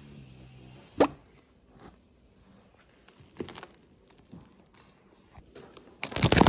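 Seed potatoes and potting soil being handled in a planting container: a sharp tap about a second in, a few soft knocks, then a louder burst of scraping, rustling noise near the end.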